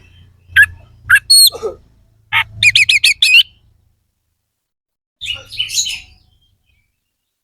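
Oriental magpie-robin (kacer) singing: a few sharp whistled and gliding notes, then a fast run of about six repeated notes, and a harsher scratchy phrase a little later. These are the coarse, sharp 'isian kasar' fills of a bird in full song.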